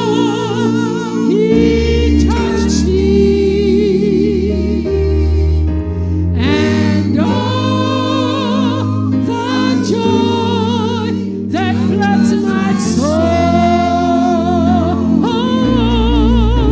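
Gospel music: a choir singing with vibrato over sustained bass and keyboard chords.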